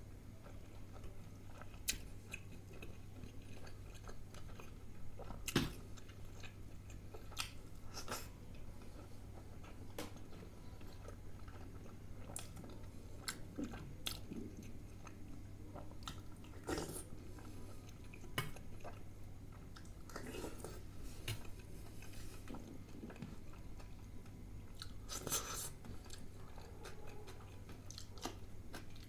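Close-miked chewing of a person eating Indian thali food, with wet mouth sounds and scattered sharp clicks and smacks.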